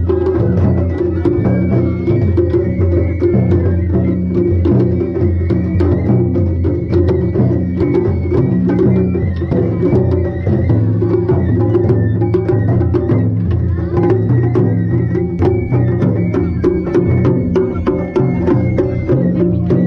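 Japanese festival music accompanying a kirin dance: drums played continuously with many sharp clicking strikes, and a faint high held tone over them.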